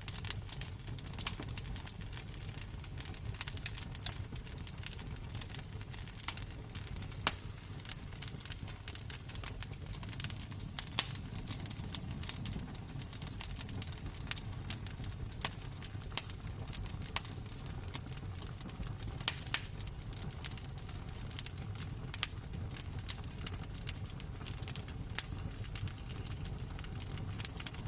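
Wood fire crackling in a fireplace: irregular sharp pops and snaps, a few louder ones scattered throughout, over a steady low rumble.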